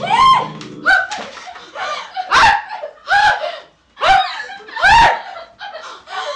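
A woman's high-pitched, panicked screams and cries, about eight short bursts, over music that fades out about a second in.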